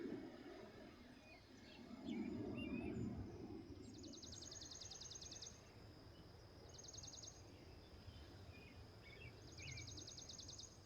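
Faint outdoor meadow ambience: short, rapid, evenly pulsed high trills repeat three times, with scattered faint bird chirps over a soft low rush of noise that swells about two seconds in.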